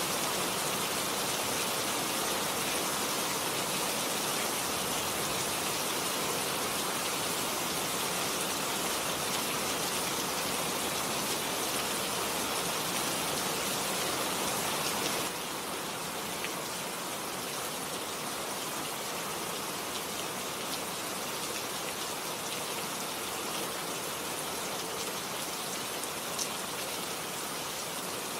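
Steady heavy rain pouring down in an even hiss, with occasional single drops ticking; the level drops suddenly about halfway through and the rain carries on a little quieter.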